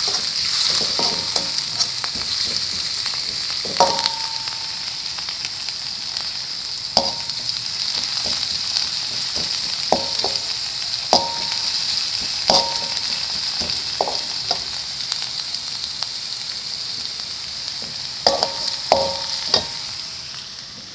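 Shallots, spring onion and garlic sizzling steadily in hot oil in a pan, stirred with a spatula that clinks sharply against the pan every few seconds, with a quick run of clinks near the end.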